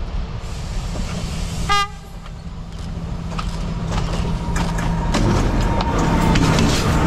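Sri Lanka Railways diesel passenger train approaching: a short toot of its horn just under two seconds in, then the engine and the clatter of wheels on the rails grow louder as the power car passes close by.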